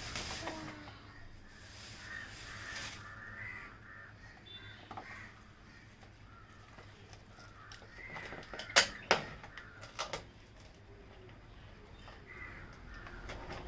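Birds giving short, harsh calls on and off, with a few sharp clicks or knocks about nine to ten seconds in.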